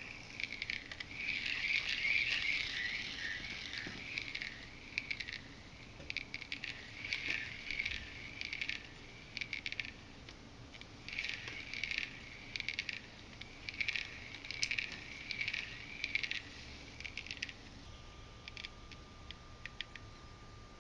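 Shimano 11 Twinpower C2000S spinning reel being worked by hand: repeated short bursts of gritty clicking and scraping, about one a second. A faint steady tone comes in near the end.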